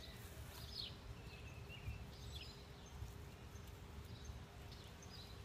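Faint outdoor ambience: small birds chirping a few short calls over a low steady rumble.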